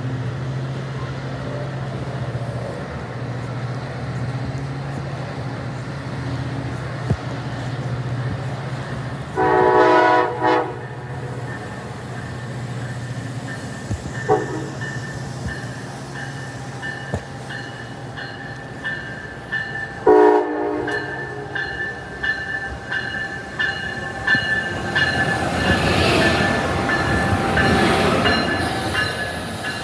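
Train horn sounding over a steady low rumble: a long blast about a third of the way in, a short toot, and another blast about two-thirds in. Near the end an approaching train's rail noise builds up.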